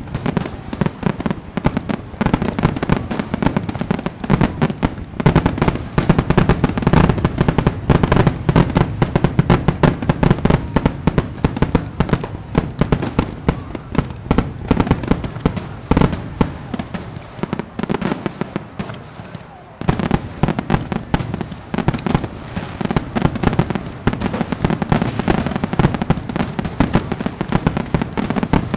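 Fireworks going off in a dense, continuous barrage of bangs and crackles. The barrage thins out about two-thirds of the way through, then picks up again about a second later.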